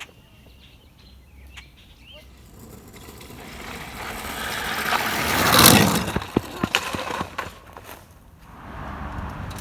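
A passing vehicle: its noise swells steadily to a peak about halfway through, then fades away. Faint bird chirps come before it.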